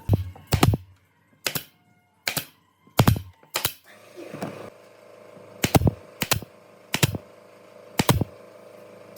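A series of about ten sharp knocks on wood, spaced irregularly about half a second to a second apart, some in quick pairs, as from tools striking wood.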